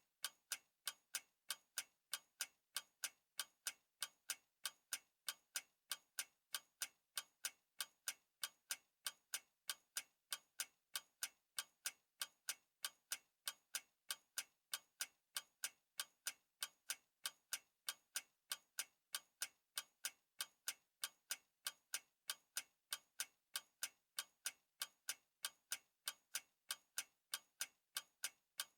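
Clock ticking steadily, about three even ticks a second.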